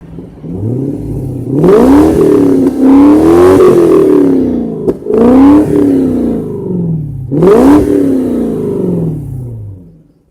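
Car engine revved three times, each rev climbing quickly in pitch and then sinking back slowly.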